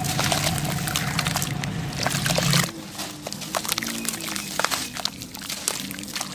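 Clumps of packed sand crumbling with a dense grainy crackle. About two and a half seconds in it cuts abruptly to a quieter, sparser run of small crackles and clicks.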